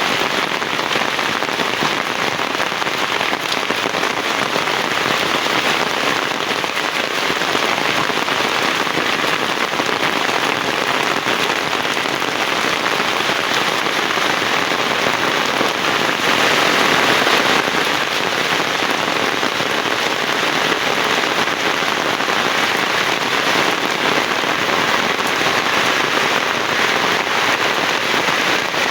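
Heavy rain pouring steadily, swelling a little louder just past halfway.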